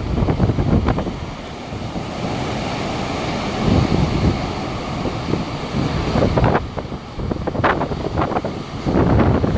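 Hurricane wind gusting hard, rising and falling in surges, with heavy wind buffeting on the microphone.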